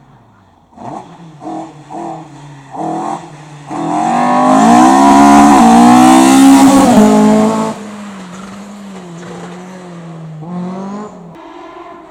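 Race car engine revving hard: a few quick throttle blips, then a loud full-throttle run close by for about four seconds. After that it drops to a fainter steady engine note, with one more blip near the end.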